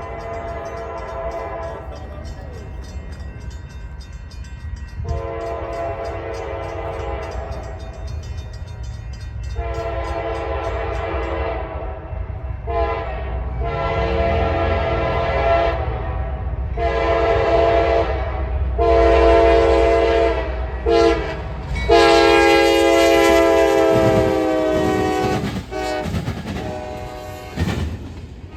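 CSX freight diesel locomotive's multi-note air horn sounding a series of blasts: two long ones, then several shorter ones, ending in a long blast, over the low rumble of the diesel engine, which grows louder as the train approaches. Near the end the wheels clatter over the rails.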